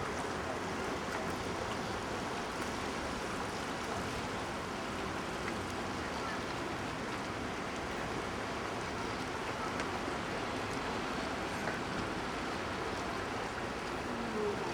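The River Exe in flood, its high, fast water rushing past in a steady, unbroken roar.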